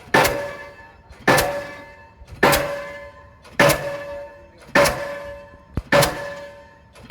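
Delmag D46-32 diesel pile hammer driving a precast concrete pile: six heavy blows about a second apart. Each blow rings with a metallic tone that fades before the next strike.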